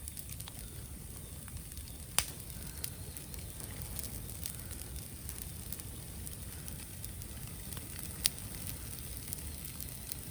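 Bamboo burning in an open bonfire: a steady crackle with scattered sharp pops, two louder ones about two seconds in and again about eight seconds in.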